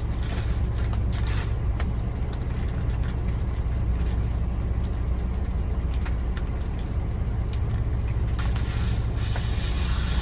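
Heavy truck's diesel engine idling: a steady low hum with no change in speed, with faint scattered clicks of handling on top.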